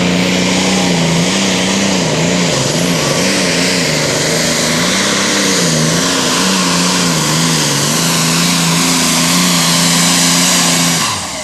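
Turbocharged John Deere Super Stock pulling tractor's diesel engine at full power under load through a pull, its pitch wavering up and down again and again. The sound stops suddenly near the end.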